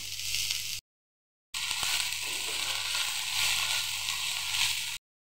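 Mixed vegetables (cabbage, carrot, peas) sizzling steadily in hot oil in a frying pan as they are stir-fried, with light scrapes of a metal slotted spatula. The sizzle cuts out briefly about a second in, then runs on.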